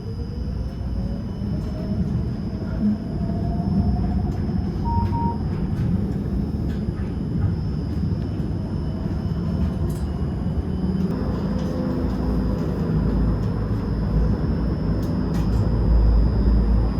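Electric tram running on rails with a steady low rumble; its motor whine rises in pitch over the first few seconds as it picks up speed, then settles into a steady hum.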